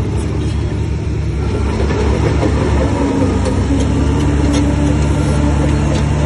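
Bulldozer's heavy diesel engine running steadily, growing slightly louder about two seconds in.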